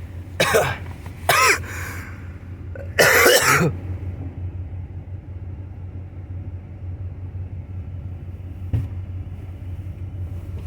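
Vehicle engine idling with a steady low rumble, while a person coughs three times in the first few seconds, the last cough the loudest. A single click sounds near the end.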